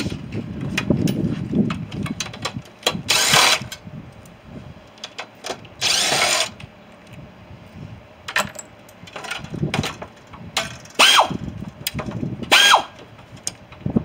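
A handheld power tool run in four short bursts, the last two with a whine that rises and holds, amid scattered metal clicks and knocks while a scrap boiler system is dismantled.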